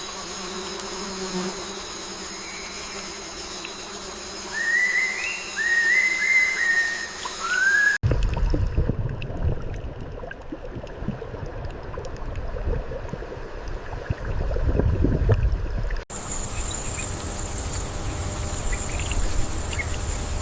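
Wild nature sound: a steady high insect drone with a few short bird chirps in the first part. The sound changes abruptly twice, to a low rumble like wind about 8 seconds in, then to a thin, steady, high-pitched insect buzz.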